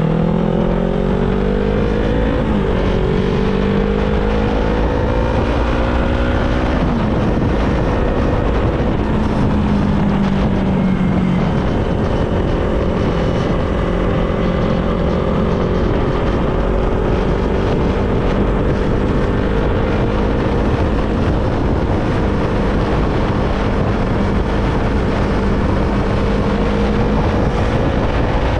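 Yamaha R25's parallel-twin engine accelerating through the gears, rising in pitch and dropping sharply at upshifts about two and a half and seven seconds in, then running at a nearly steady cruise. Wind rushes over the microphone throughout.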